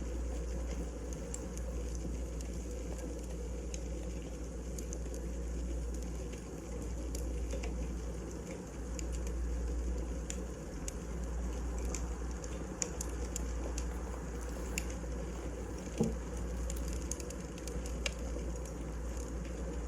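Wood fire burning, with a steady hiss and low rumble and irregular sharp crackles, and one louder pop about three quarters of the way through.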